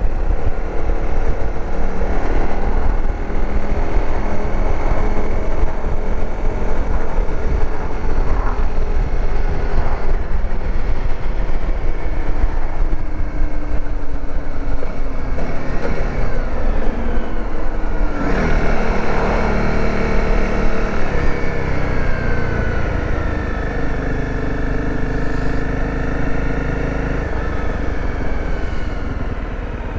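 Dirt bike engine running under way, its pitch sagging slowly as it slows, then dipping and climbing again about eighteen seconds in as it accelerates, before holding steady at cruising speed.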